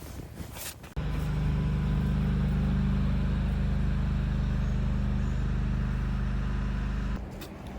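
Low, steady hum of a vehicle engine running. It starts abruptly about a second in and cuts off suddenly about seven seconds in.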